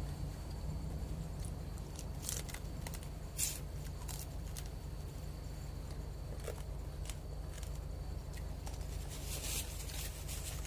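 A person eating: a few short, sharp crunches and clicks spaced irregularly over a steady low hum.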